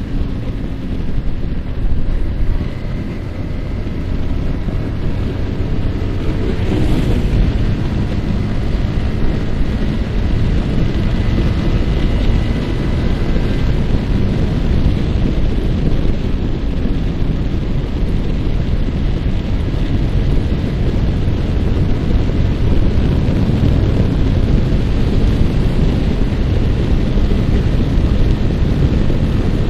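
Yamaha R15 single-cylinder motorcycle engine running steadily at road speed, largely buried under wind rushing over the microphone.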